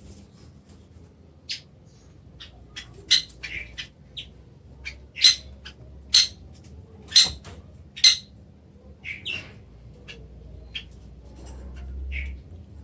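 Oriental magpie-robin (kacer) giving a series of short, sharp call notes, about a dozen scattered single notes with the loudest in the middle, rather than a continuous song.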